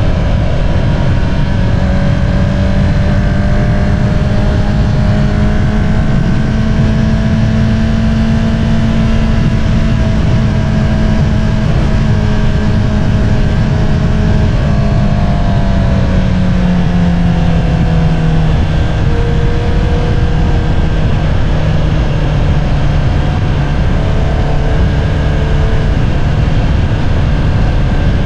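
Honda CBR650R inline-four engine with an Akrapovič single-outlet exhaust, cruising at steady revs under a dense low rush of wind noise. About two-thirds of the way through, the revs ease down, and the engine holds at a lower, steady pitch.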